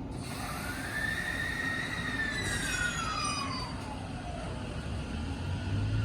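JR E257-5000 series electric limited express pulling out, its motor whine rising and then sliding down in pitch over a few seconds above a steady rolling noise, with a low rumble building near the end.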